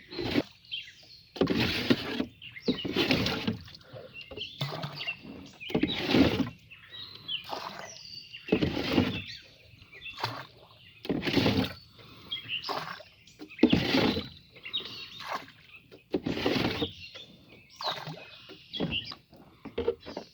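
Water being bailed out of a small boat by hand, a scoop of water swept out and splashed over the side about every one and a half seconds.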